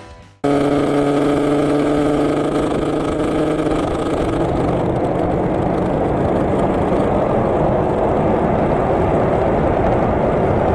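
Motorcycle running at a steady cruising speed, its engine note under heavy wind and road noise. It cuts in suddenly about half a second in and holds an even level.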